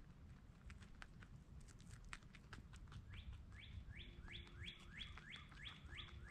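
A songbird singing a quick run of about nine rising whistled notes, about three a second, starting about three seconds in, over scattered faint clicks.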